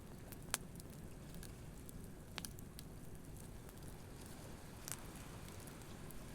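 Wood campfire crackling, with a few sharp pops standing out about half a second, two and a half and five seconds in, over a steady low wash of surf breaking on the beach.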